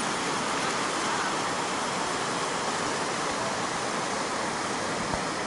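Rushing river water, a steady whitewater rush around the raft.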